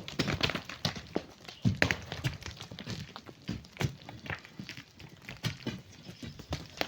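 Stones and sand clattering: an irregular run of sharp knocks and scrapes, several a second, as from digging on a rocky sand face.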